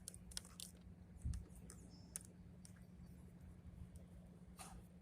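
Faint, scattered clicks of a screwdriver working at screws in a desktop computer case, with a dull bump about a second in, over a low steady hum.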